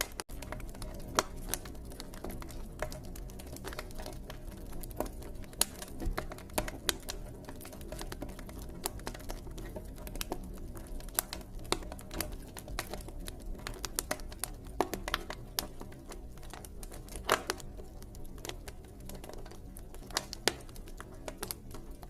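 Wood campfire crackling, with irregular sharp pops, a few of them louder, over a steady low rumble of the burning fire.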